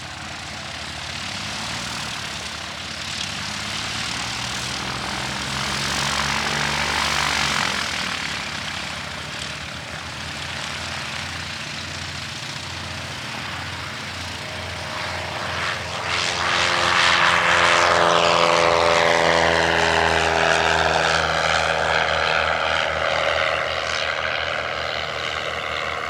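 Propeller airplane engine growing louder as the plane nears, then passing close by about two-thirds of the way through, its engine note falling in pitch as it goes past.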